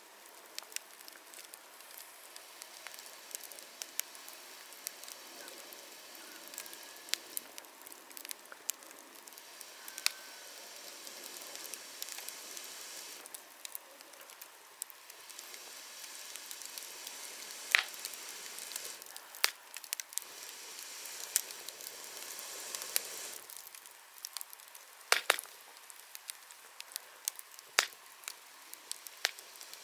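Wood bonfire crackling: a steady hiss of burning with constant small snaps, and several louder sharp pops in the second half.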